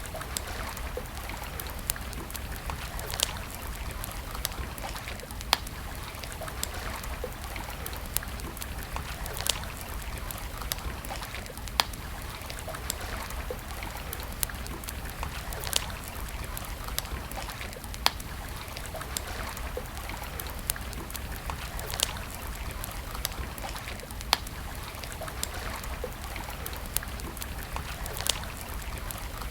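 Wood fire crackling, with sharp pops every second or two, over the steady rush of flowing stream water and a low rumble.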